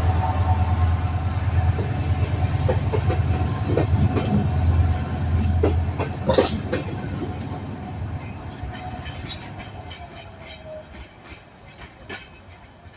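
A900 diesel locomotive and its train pulling away: the engine's low hum fades while the wheels click over the rail joints, and the whole train grows steadily quieter as it moves off.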